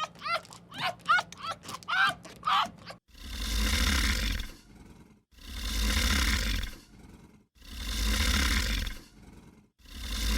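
A quick run of short, pitched animal calls, about three a second. About three seconds in, these give way to long, rough, rumbling roars from a large animal, one every two seconds or so.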